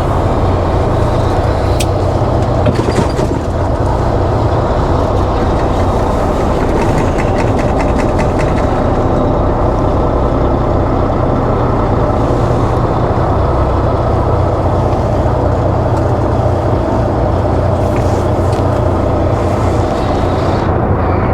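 Semi truck's diesel engine running steadily, heard from inside the cab. There is a short run of fast, even ticking about seven seconds in.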